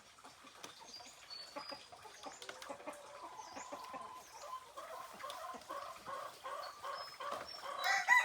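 Chickens clucking in short repeated calls, with a rooster beginning a loud crow near the end.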